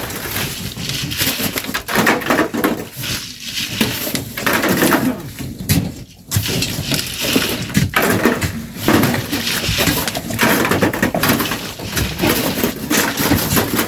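Shovels scraping into sand and tossing it, in repeated irregular strokes.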